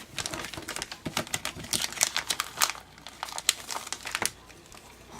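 Small plastic baggies crinkling as they are handled, a fast run of crackles that thins out about four seconds in.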